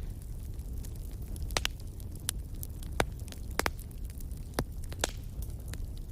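Wood fire crackling in a fireplace: sharp, irregular pops and snaps about once a second over a low, steady rumble.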